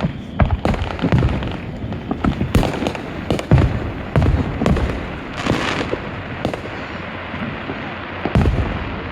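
Fireworks going off: an irregular string of booms and pops, several a second at times, with a longer crackling burst a little past halfway.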